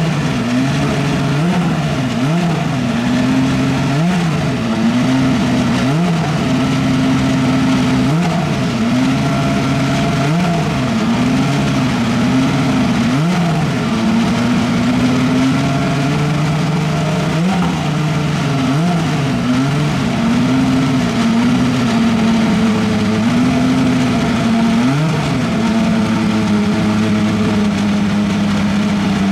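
Super Formula race car's Honda 2.0-litre turbocharged four-cylinder engine running for its warm-up. It is held at a raised idle and given repeated short throttle blips, each a quick rise and fall in pitch, with stretches of steady revs between them.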